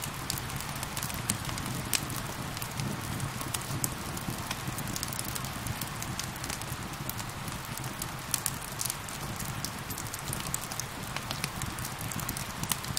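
Crackling fire with frequent short, sharp pops and snaps, over a steady hiss of falling rain.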